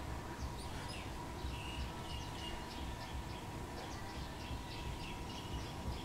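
Wild birds chirping, with many short, high notes coming thick and fast, over a steady low rumble.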